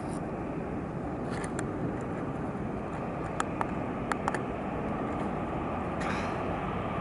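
Electric locomotive approaching from a distance: a steady low rumble, with a handful of short sharp clicks in the middle.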